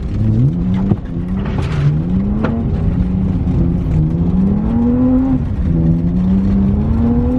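BMW E36 engine revving up and down under throttle while drifting. The pitch climbs and falls several times, with sharp drops near the start and again about five and a half seconds in as the throttle is lifted.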